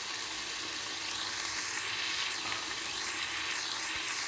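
Chicken and onion masala sizzling steadily under a glass lid in a frying pan, a soft even hiss as the chicken cooks in its own released water.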